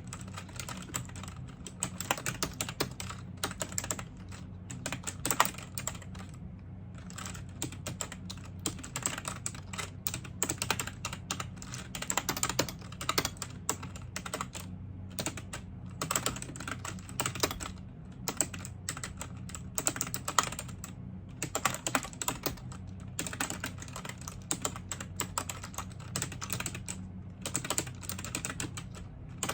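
Typing on a computer keyboard: rapid runs of keystroke clicks broken by a few short pauses, over a steady low hum.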